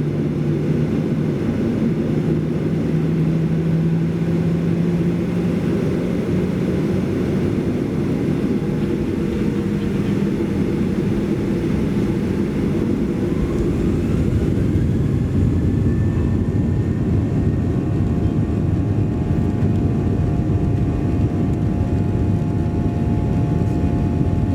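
Boeing 737-800's CFM56 jet engines heard from inside the cabin: a loud, steady low rumble. About thirteen seconds in, a whine rises for about three seconds and then holds steady, as the engines spool up.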